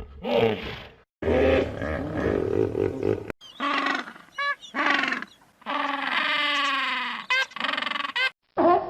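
A string of different animal calls spliced one after another with abrupt cuts, including a rough roar and a long call that falls in pitch.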